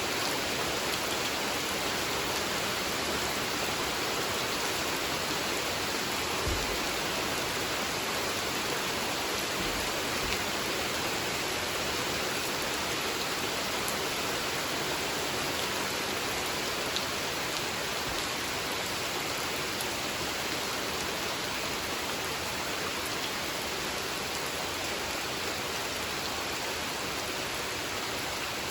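Steady rain falling on a spring-fed pond, an even hiss of many drops, with now and then a single louder drop or plop standing out.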